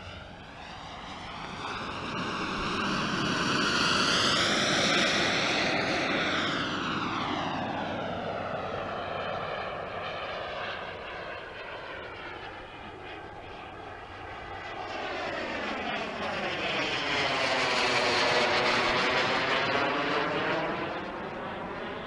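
Radio-controlled model Eurofighter jet flying past twice, its engine whoosh swelling as it approaches and fading as it moves away, once early and once in the second half.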